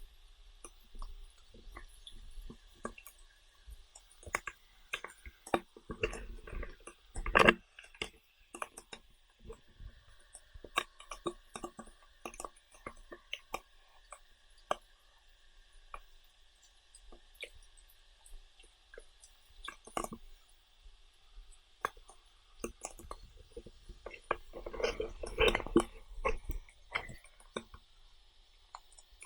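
A person chewing and eating up close, with irregular wet clicks and crackles that come thickest twice, about six seconds in and again near the end, over a steady faint high hiss.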